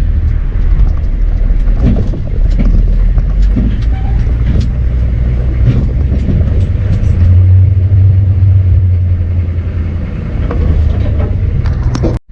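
Ex-Army Chevy 1¼-ton diesel truck driving, its engine a steady low drone with knocks and rattles over it. The engine gets louder for a few seconds about seven seconds in, then eases back.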